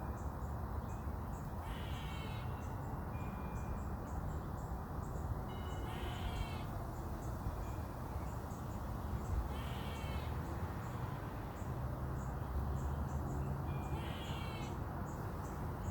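Squirrel calling in agitation: a short, wavering, cry-like call repeated about every four seconds, four times, which sounds like a baby crying.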